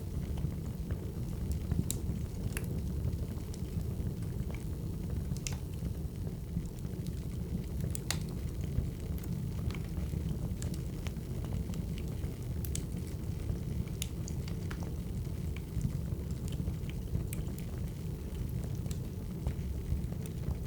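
Burning firewood: a steady low rumble with sharp crackles and pops at irregular intervals.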